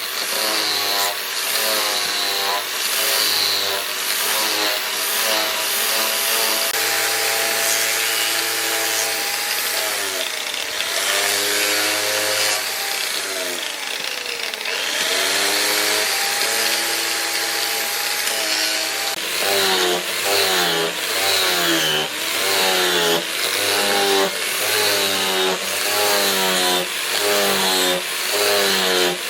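Electric grinder working a steel machete blade: the motor whine sags and recovers as the blade is pressed on and lifted, over a steady grinding hiss. From about two-thirds of the way in, the dips come quickly, about once a second, as short repeated passes.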